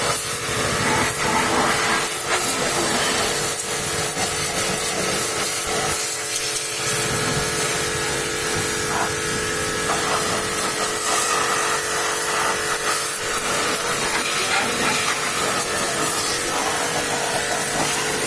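High-pressure washer spraying water, its motor running steadily with a constant hiss of spray throughout.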